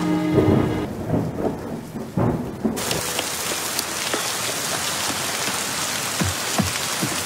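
Thunder rumbling low under rain for the first few seconds. About three seconds in, it cuts suddenly to a steady hiss of heavy rain falling, with occasional louder drops.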